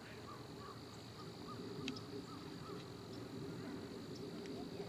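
Faint outdoor lakeside ambience: a steady high-pitched insect drone, with a string of short soft chirps over the first few seconds and a few scattered ticks.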